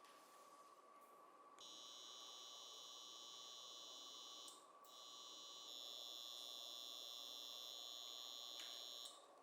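A steady, high-pitched electric whine, like a small motor running at constant speed, heard in two stretches of about three and four seconds with a short break between them.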